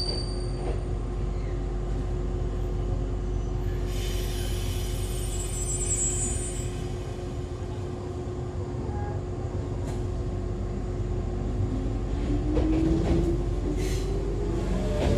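Interior sound of an Echizen Railway MC6101 electric railcar, a car the uploader labels as having an abnormal noise, with a steady equipment hum while standing. From about 12 seconds in, the whine of its MT54 DC series traction motors and gears rises in pitch as the train starts off.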